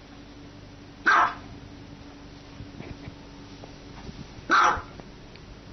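Small dog barking twice, single short barks about three and a half seconds apart.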